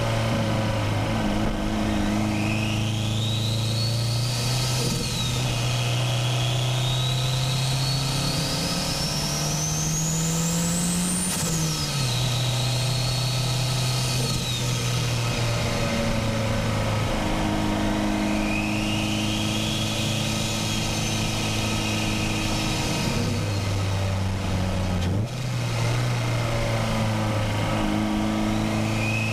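Turbocharged Nissan SR20DET four-cylinder in a Miata pulling under load, with a high turbo whine that climbs as revs build and falls away sharply about eleven seconds in, then climbs again. The engine note steps with gear changes.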